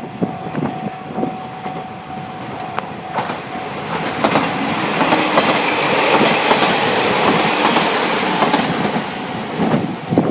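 A train, a diesel railcar on the non-electrified Kyudai Main Line, passing over a level crossing. The wheels clatter over the rail joints, and the noise builds to a peak about halfway through before easing near the end. A steady ringing tone is heard during the first few seconds.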